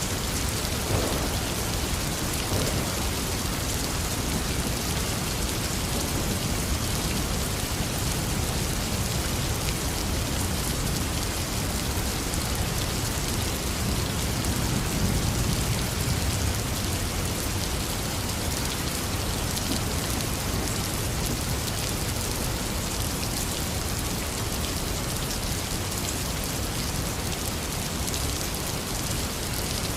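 Heavy rain falling steadily, with a low rumble of thunder swelling briefly around the middle.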